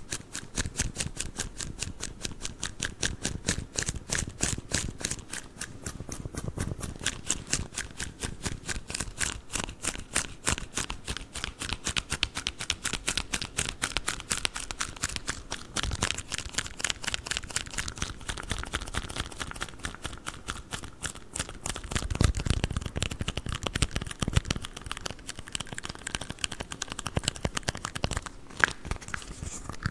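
Rapid tapping on red plastic cups, a fast run of light clicks with a heavier, deeper patch about three-quarters of the way through.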